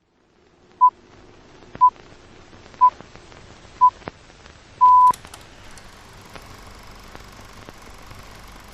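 Electronic countdown beeps: four short beeps of one pitch, a second apart, then a longer beep of the same pitch about five seconds in, over a faint hiss with a few soft clicks.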